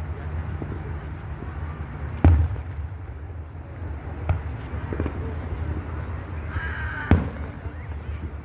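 Scattered firework bangs, four in all, the loudest about two seconds in with a short echo after it. Crickets chirp steadily behind them.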